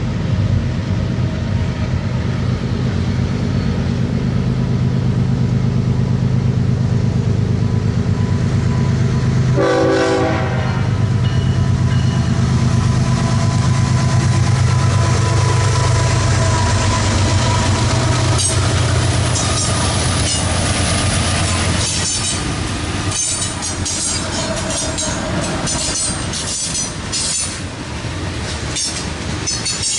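A BNSF freight train's diesel locomotives approaching and passing, their engines running with a deep steady drone, with one short horn blast about ten seconds in. In the second half the freight cars roll by, their wheels clicking over the rail joints with a high hiss.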